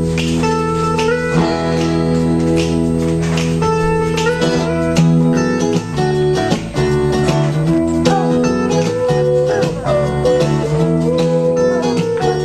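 Guitar music: plucked strings with some notes sliding in pitch over sustained low notes.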